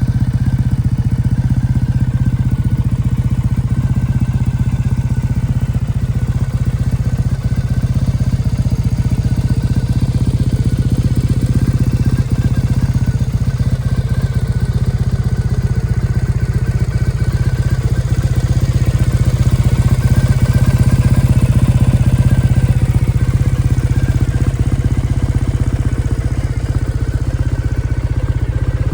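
Triumph Thruxton 900's 865cc parallel-twin engine idling steadily through an Arrow 2-into-1 exhaust, swelling slightly louder around two-thirds of the way through.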